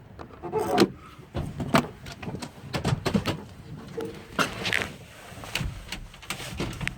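Irregular clunks and knocks from the cab of a 1995 GMC TopKick bucket truck as someone climbs in and handles the door, with a brief squeak about halfway through; the engine is not yet running.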